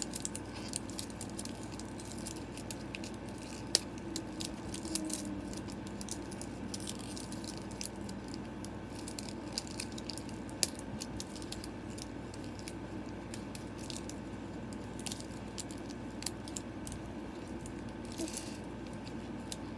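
Plastic packaging of a Mini Brands toy capsule being handled and opened: scattered small clicks, crinkles and rattles.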